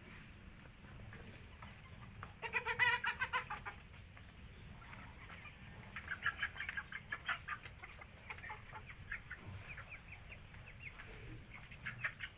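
Domestic fowl clucking: a quick burst of short, rapidly repeated calls a couple of seconds in, then scattered short calls from about six seconds on.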